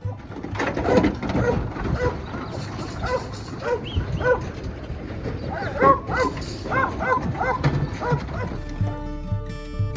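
A dog barking repeatedly in short barks over a noisy background. Guitar music comes back in near the end.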